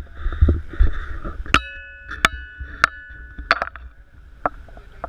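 Several sharp clinks, each with a short ringing tail, like something striking glass or metal, over a low rumble.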